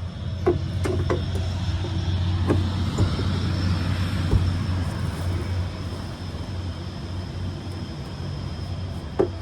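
A vehicle engine drones low, swelling over the first couple of seconds and easing off after about five, with a few sharp metallic clicks and knocks near the start and again near the end.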